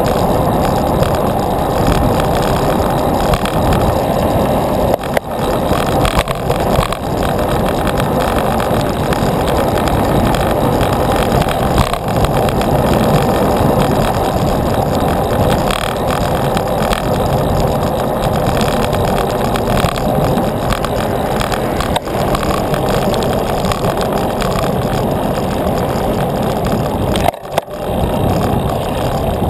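Riding noise from a moving bicycle, a loud steady rush of wind on the microphone and tyres rolling on the road, with a short dip near the end.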